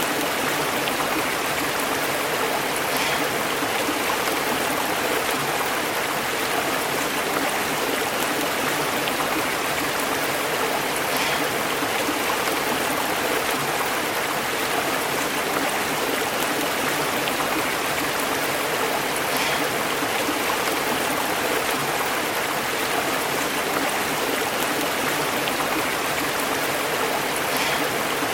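Stream burbling and bubbling over rocks in a steady, unbroken rush of water.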